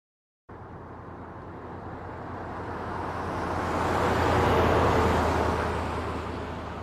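A motor vehicle passing by, with a low steady engine hum under the road noise. It starts suddenly about half a second in, grows louder to a peak about four and a half seconds in, then fades away.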